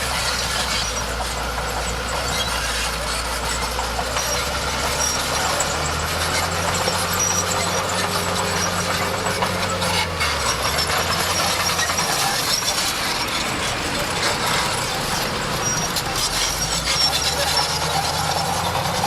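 Crawler bulldozer working: its diesel engine runs under load, with the engine note dipping and shifting about ten seconds in, over the steady clatter and squeal of its steel tracks.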